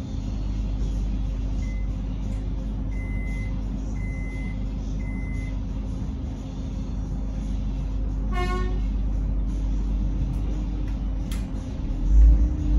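Cabin sound of a Metro X'Trapolis electric train standing at a platform: a steady low hum from its equipment, four short high beeps a few seconds in, and a brief horn toot about eight and a half seconds in. A low thump comes near the end.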